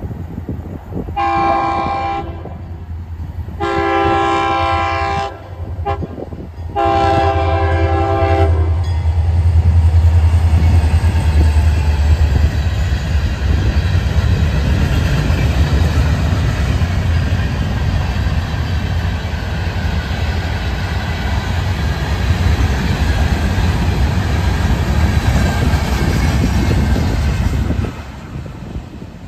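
Florida East Coast freight train blowing its horn in three separate chord blasts. Then the diesel locomotive and a long string of freight cars rumble past with wheels clacking, and the sound drops off suddenly near the end as the last car goes by.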